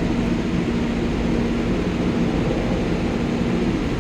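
Diesel locomotive of a GO Transit commuter train running steadily while the train stands at the platform, a loud, constant drone with an even low hum.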